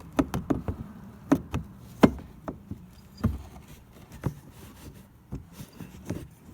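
Irregular knocks, taps and clicks of a part being fitted back onto an ATV by hand, with the loudest knock about two seconds in; the engine is not running.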